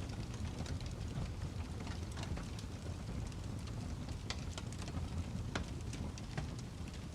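Fireplace ambience: a wood fire crackling, with irregular sharp pops and snaps over a steady low rumble.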